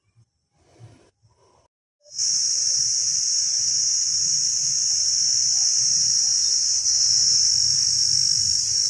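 A chorus of insects in a wet grove: a loud, steady, high-pitched buzz that starts suddenly about two seconds in, after near silence, and holds without a break.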